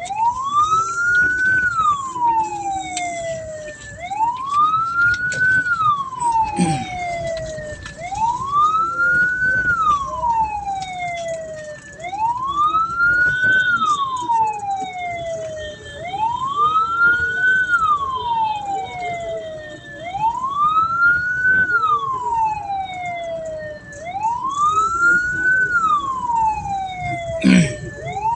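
Hearse siren wailing in a slow repeating cycle, a quick rise in pitch then a longer fall, about once every four seconds, over road noise.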